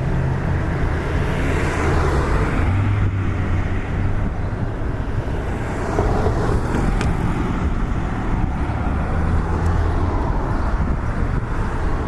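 Road traffic at a street intersection: vehicle engines running with a low rumble and tyre noise, swelling a little as vehicles pass.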